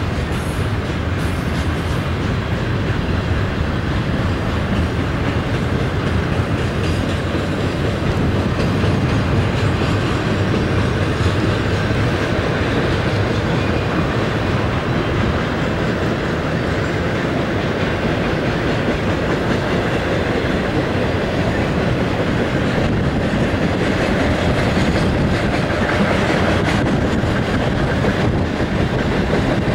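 CSX double-stack intermodal freight cars rolling past: a steady, loud rumble and clatter of steel wheels on the rails.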